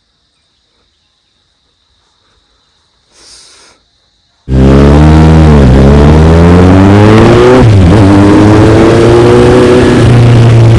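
Near silence, then about four and a half seconds in a Kawasaki Z800's inline-four engine cuts in suddenly and loud, accelerating with its pitch rising and dipping briefly twice.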